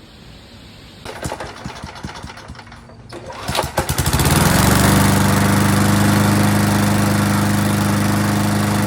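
Small engine of a 1984 Montgomery Ward 3 hp, 20-inch lawn mower being cranked with a rattle of clicks, catching about four seconds in and then running steadily at one speed.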